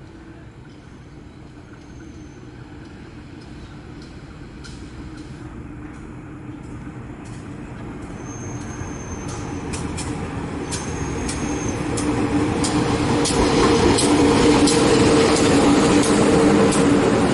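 A train approaching, its rumble growing steadily louder, with clicking from the wheels on the rail joints that thickens in the second half.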